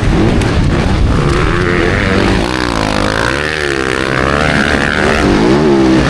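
Motocross bikes' engines racing, their pitch rising and falling repeatedly as the riders work the throttle, with several engines heard at once.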